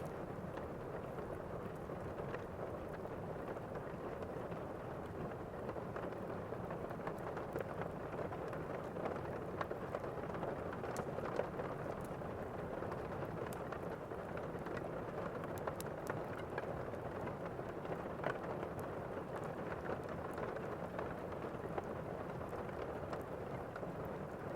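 Steady heavy rain of a thunderstorm ambience, an even hiss with scattered small crackles and ticks throughout.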